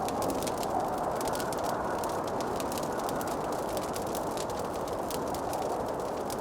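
Wood fire crackling, with many small irregular pops and snaps over a steady rushing noise.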